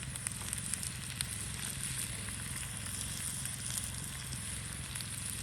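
Peppers and onions frying over a campfire, a steady sizzle with scattered small pops.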